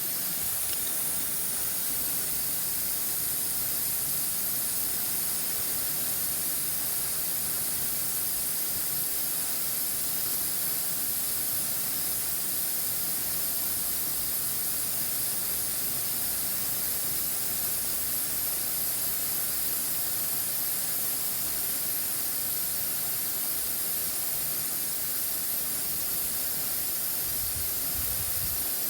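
Water sprinkler spraying: a steady, high hiss that does not change.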